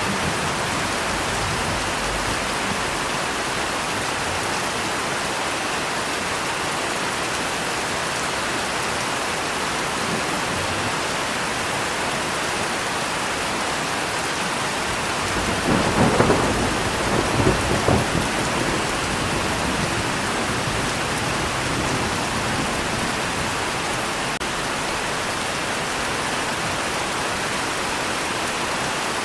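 Steady heavy rain with a crackling roll of thunder about halfway through that lasts around two seconds.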